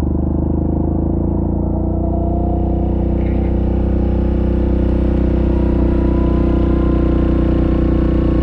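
Yamaha Grizzly ATV's single-cylinder engine running under way. It holds a steady note whose pitch and loudness creep up slowly in the second half as the quad picks up speed.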